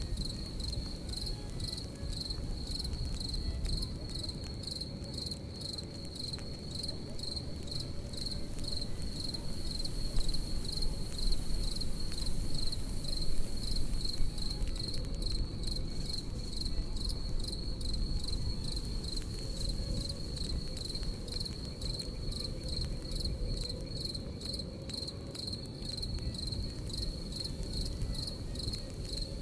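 Crickets chirping in a steady, fast-pulsing trill, over the low rumble and scattered crackle of a campfire. The fire swells a little louder about a third of the way in.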